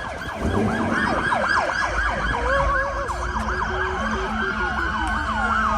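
Several police sirens sounding together: fast yelping sweeps overlap slower rising and falling wails, with a pulsing lower tone and a steady low rumble of engines underneath.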